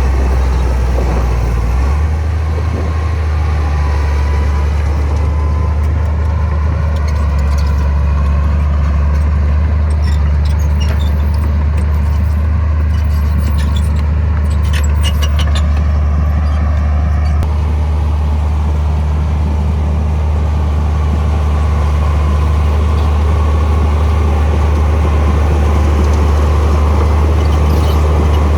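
Heavy diesel earthmoving machinery running steadily with a deep drone. Light metallic clinks and squeaks come and go in the middle.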